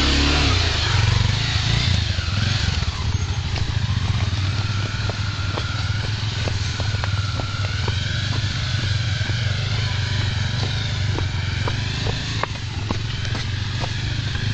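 Honda XR250 Tornado's single-cylinder four-stroke engine running steadily, with scattered sharp clicks from about four seconds in.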